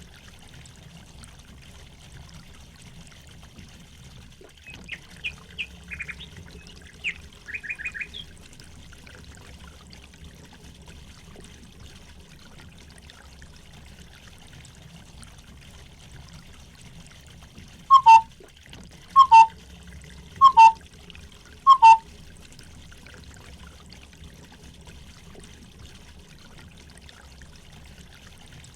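Steady trickling water, with birds calling over it: a quick run of high chirps around five to eight seconds in, then four loud two-note calls about a second and a half apart later on.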